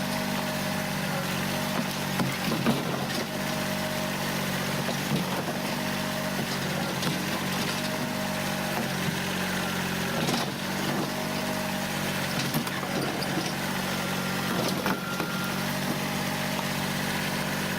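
Kubota diesel tractor engine running at a steady speed, with scattered sharp cracks and knocks over it.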